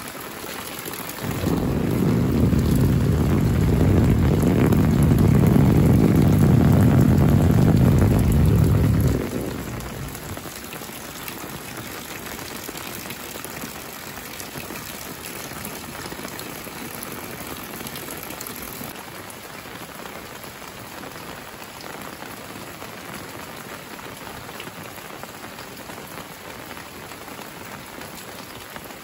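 Steady rain falling on corrugated metal roofs and a wet lane. From about a second in until about nine seconds in, a loud deep rumble sits under the rain, then cuts off and leaves the rain alone.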